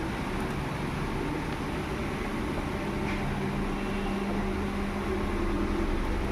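Steady mechanical hum of room background noise, with a low steady drone running through it.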